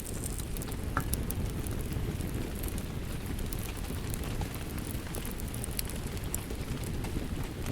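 Steady rain mixed with a fireplace's wood fire, giving scattered sharp crackles and pops over an even wash of noise that is heaviest in the low range.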